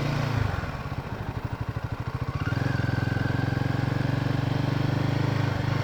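Royal Enfield Himalayan 450's single-cylinder engine riding through deep sand. It falls to low revs with slow, separate firing pulses, then picks up again about two and a half seconds in and pulls at a steady note.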